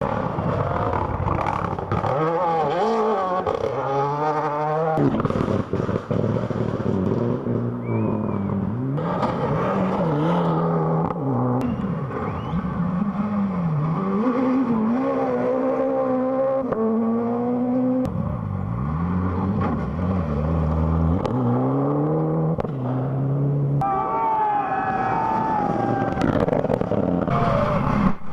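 Rally car engine driven hard, its pitch climbing as it revs through each gear and dropping sharply at the shifts and under braking, over a rushing road noise.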